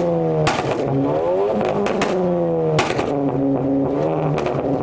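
Car engine revving hard, its pitch climbing and falling again and again as it is held at high revs, with several sharp cracks through it.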